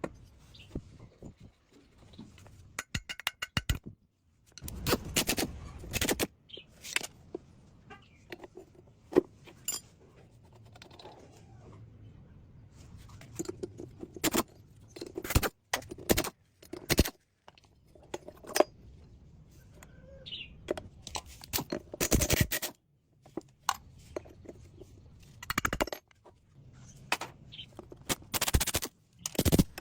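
Intermittent sharp clicks, knocks and scrapes of metal bicycle parts and hand tools being handled, with a brief rapid ratchet-like ticking about three seconds in.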